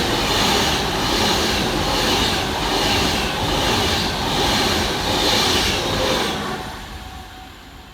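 Class 390 Pendolino electric train passing through the station, its wheels on the rails giving a steady rush with a beat about once a second, fading away about six and a half seconds in.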